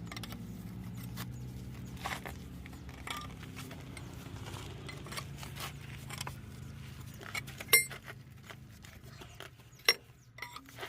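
Metal tools and parts clinking and tapping during truck repair work, over a steady low drone. Two sharp metallic clanks, about two-thirds of the way through and again near the end.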